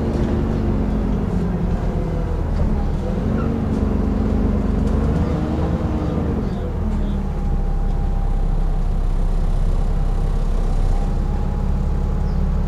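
Dennis Trident 2 double-decker bus engine running under way, its pitch rising and then falling again about halfway through. A steady high whine, the 'hoovering', runs over it through the later part.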